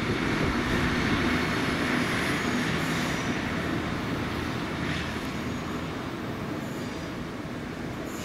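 A train running through the station, a steady rail rumble that slowly fades away.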